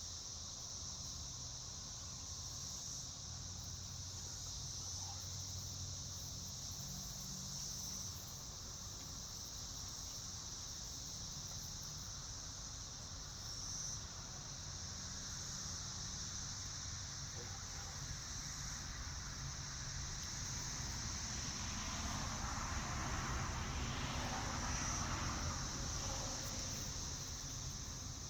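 Steady high-pitched insect chorus, the continuous trilling of crickets or similar insects, with a low rumble underneath. Near the end there is a few seconds of rustling.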